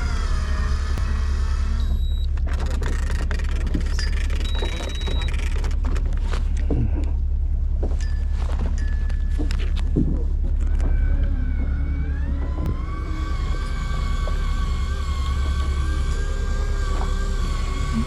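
Fishing boat's engine running with a steady low drone, with scattered clicks and knocks on deck. About twelve seconds in, a motor whine rises and then holds steady.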